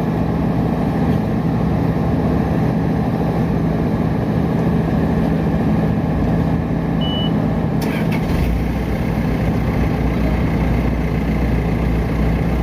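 Diesel engine of a Putzmeister M56-5 concrete boom pump truck running steadily with a constant drone. About eight seconds in, a deeper low rumble joins it. A brief high beep sounds just before that.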